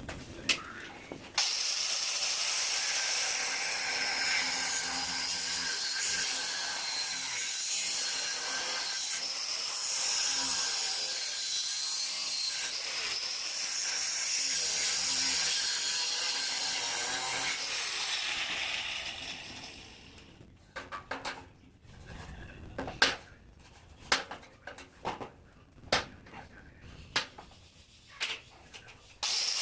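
A steady, loud hiss like a jet of air or spray runs for about eighteen seconds and then stops. Scattered sharp clicks and knocks of hand tools and parts being handled follow, and the hiss starts again right at the end.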